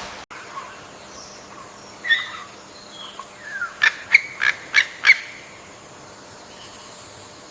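Bird calling: a few scattered short calls, then a quick run of five sharp, loud notes about a quarter second apart, over a faint steady background hiss.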